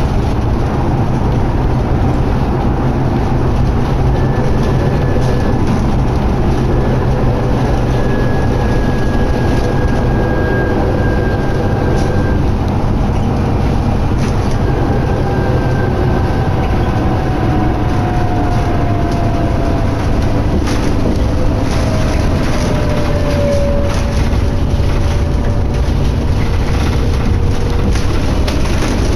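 Steady engine and road noise heard from inside a New Flyer D60LFR articulated diesel bus on the move, with a low rumble and a faint whine that slowly drops in pitch over several seconds past the middle.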